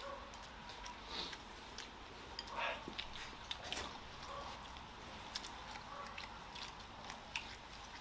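Chewing of rice and braised pork belly, with light clicks of wooden chopsticks against a ceramic rice bowl scattered throughout.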